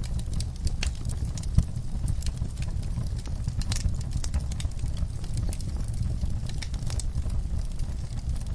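Log fire crackling, with irregular sharp pops and snaps over a low steady rumble; one louder pop about a second and a half in.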